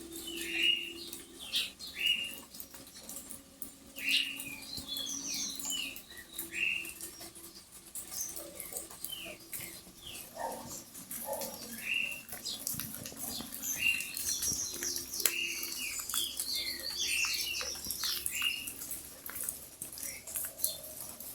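Birds calling, with many short downward-sliding chirps repeated again and again and some higher twittering notes over them. Scattered drops patter throughout.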